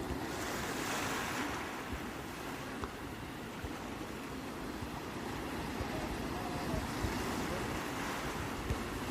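Sea waves breaking and washing in, with one wave surging about a second in and a weaker one near the end, over a low wind rumble on the microphone.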